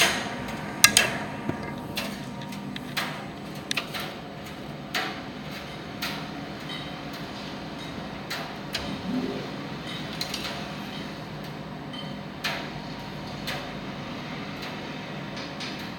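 Primus tumble dryer running with a steady hum, broken by irregular sharp clicks and knocks, most frequent in the first few seconds.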